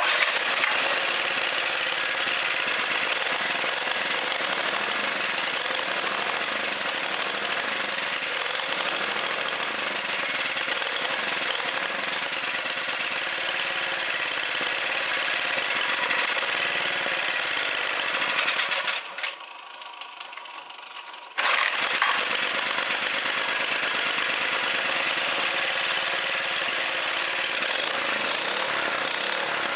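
Baja Racer mini bike's small single-cylinder engine running with a rapid, even beat. It runs on a freshly cleaned carburetor, its varnish cleared out and the jet cleared. About 19 seconds in the sound drops away for roughly two seconds, then comes back suddenly at full strength.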